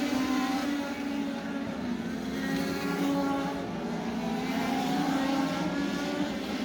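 INEX Legends race car engine running at speed, its pitch rising and falling as the throttle comes on and off.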